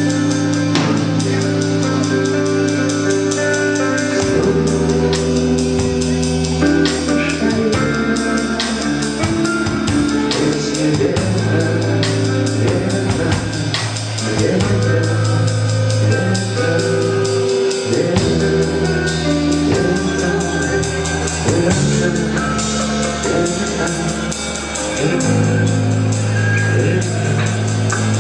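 A rock band playing live: guitar chords over bass and drum kit, with the chords changing every few seconds.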